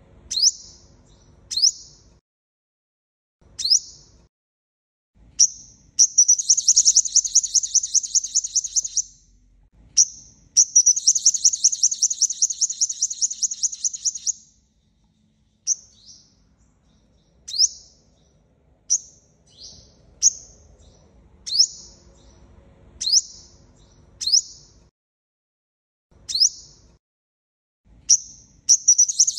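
Five-colour sunbird calling: sharp high chips repeated every second or two, broken by two long rapid trilling songs of about three and four seconds, with another trill starting near the end. This is a decoy recording played to lure wild sunbirds.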